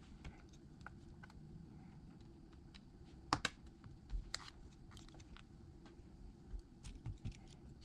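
Scattered small clicks and taps of tools and iPad parts being handled on a repair bench, with one sharper click about three seconds in and a few more near the end.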